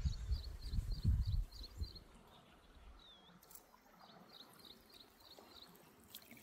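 A bird calling a short high chirp over and over, about three times a second, in two runs: one through the first second and a half, the other from about four seconds in. A low rumbling noise is loudest over the first two seconds.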